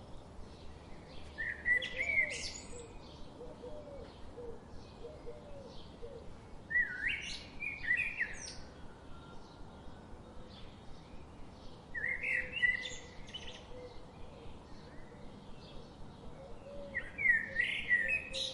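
Parrots calling: four bursts of sharp, shrill chirping calls about five seconds apart, over a steady background of faint bird chirps.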